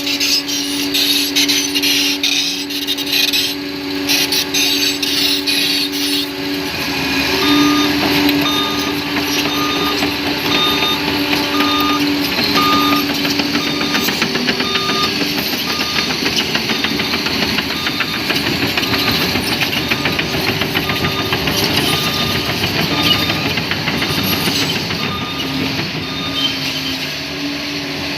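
Bulldozer engine running steadily, with rattling for the first few seconds. From about seven seconds in, its reversing alarm beeps steadily as it backs up.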